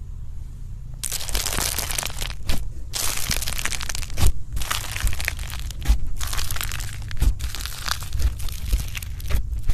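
Slime being squeezed and pressed by hand, giving dense runs of crackling and crunching broken by short pauses, with sharp pops here and there.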